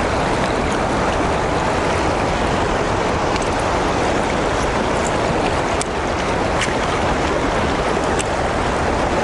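Steady rushing of river water pouring through the tailwater below a lock and dam, with a few faint clicks above it in the second half.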